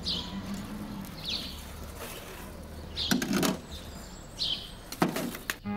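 Background ambience with a bird chirping several times in short falling calls, and a couple of sharp knocks about three and five seconds in.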